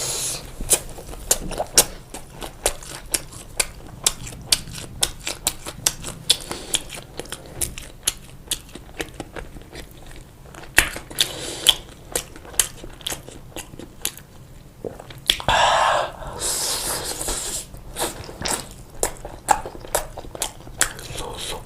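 Close-miked chewing of pizza: a dense run of wet mouth clicks and smacks, with a longer, louder bite about sixteen seconds in.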